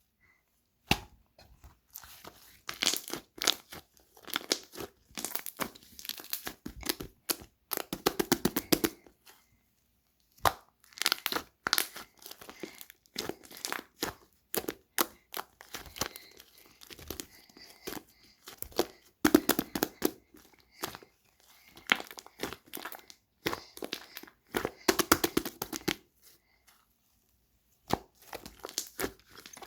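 Slime being squished and stretched by hand, giving runs of rapid crackling, popping clicks with brief pauses between them.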